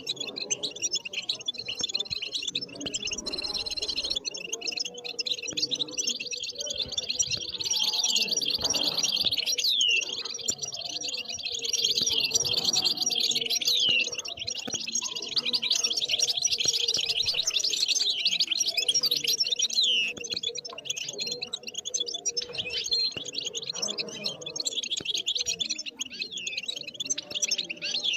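European goldfinch singing a long, continuous twittering song of rapid high notes, broken now and then by clear downward-sliding whistles.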